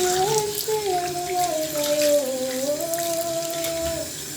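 A single voice singing a wordless melody in long held notes that slide down in steps and come back up, then stops shortly before the end. This is spontaneous worship singing in tongues, over a steady background hiss.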